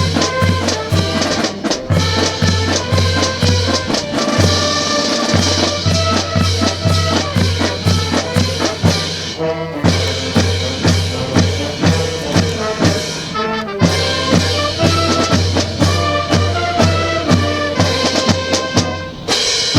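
Brass band playing marching music, trumpets and trombones over a steady bass drum beat of about two strokes a second.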